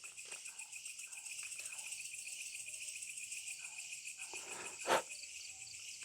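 Night insect chorus of crickets trilling steadily in high, fast-pulsing bands, with a single sharp click about five seconds in.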